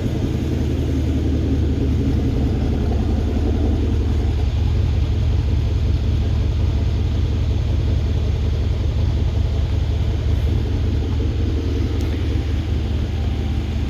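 Mercedes-Benz E63's freshly rebuilt V8 idling steadily with the bonnet closed: a low, even rumble.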